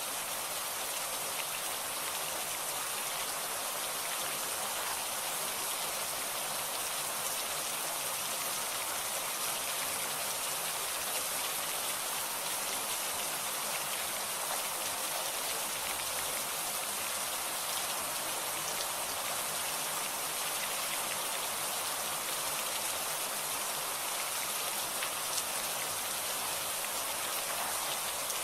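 Steady heavy rain falling, a constant hiss with scattered taps of individual drops.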